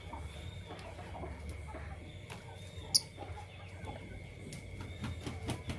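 Lovebirds calling, with scattered short low chattering calls and one brief, sharp, high chirp about three seconds in.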